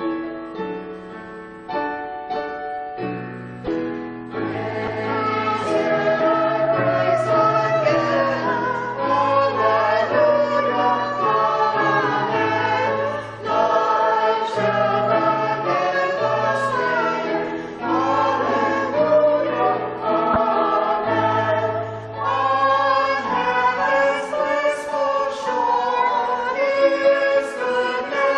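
A choir singing a hymn with keyboard accompaniment, after a few seconds of keyboard alone.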